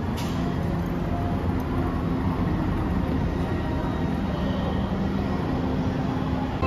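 Passenger train running, a steady rumble of wheels and motor heard from on board, with a short click near the start.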